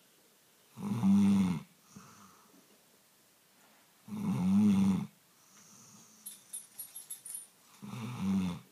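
A sleeping Labrador snoring: three loud, low snores, each under a second long and about three seconds apart, with soft breaths between them.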